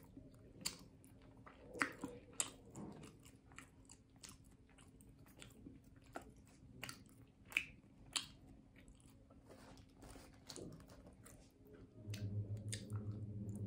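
Close-up mouth sounds of someone chewing kutsinta, a chewy rice cake topped with grated coconut, with many small sharp clicks and smacks. About twelve seconds in, a low steady hum starts.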